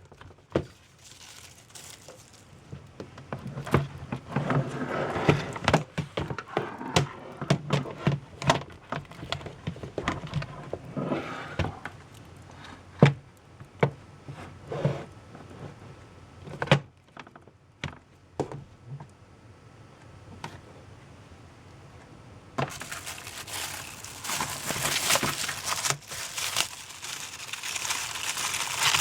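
Packaging of a model train set being handled: rustling and crinkling with many scattered clicks and knocks, turning into louder, continuous crinkling for the last several seconds.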